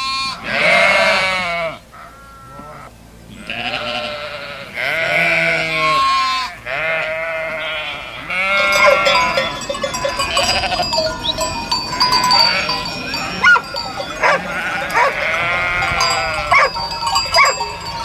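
Sheep bleating: single bleats a second or two apart at first, then from about halfway a large flock bleating over one another.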